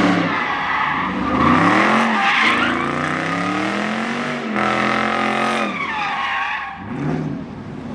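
A car's engine revving hard, its pitch rising and falling several times, with tyres squealing as the car slides through a burnout or drift.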